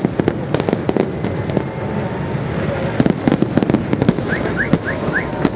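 Fireworks going off: rapid cracks and bangs in two dense flurries, one at the start and another about three seconds in, over a steady crackling rumble.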